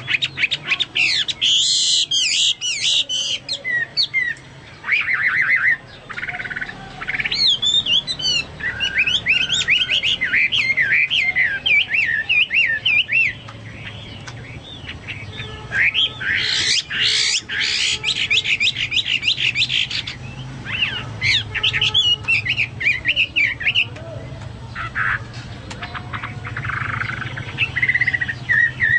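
Chinese hwamei singing energetically: a loud, varied song of rapid whistles, trills and chattering phrases broken by short pauses, in a style that sounds like a leafbird (cucak mas).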